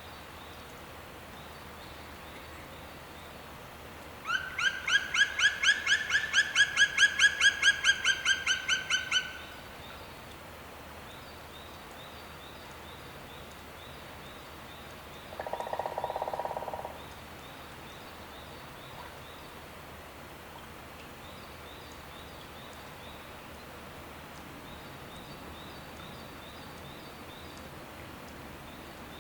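A bird calling a rapid run of about two dozen ringing notes, about five a second, lasting some five seconds. A shorter, lower sound follows about a second and a half later in the middle of the stretch, over a faint steady outdoor hiss with light ticking.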